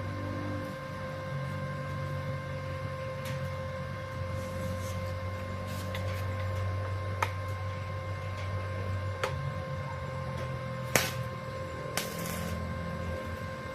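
Arc welding on steel tubing: the welder gives a steady electrical hum over a faint crackling hiss, with a few sharp clicks and snaps scattered through.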